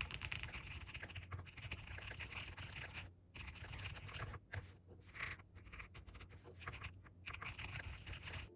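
Rapid typing on a keyboard, a dense run of small key clicks broken by short pauses about three, four and a half and seven seconds in. It stops abruptly near the end.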